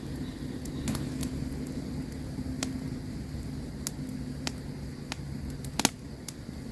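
Campfire crackling: irregular sharp pops and snaps, the loudest near the end, over a steady low rumble.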